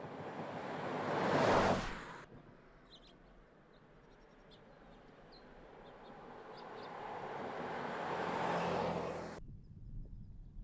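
Toyota 4Runner driving past twice. Engine and tyre noise swells to a peak about a second and a half in and cuts off abruptly soon after, then builds slowly again to a second peak near the end and cuts off just as suddenly. Birds chirp faintly in the lull between.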